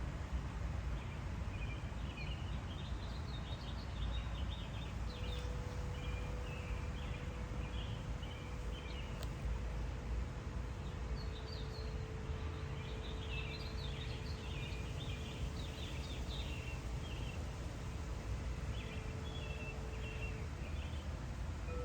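Garden ambience: small birds singing in short, scattered chirping phrases over a steady low rumble, while a wind chime's single low note rings on for many seconds and fades out near the end.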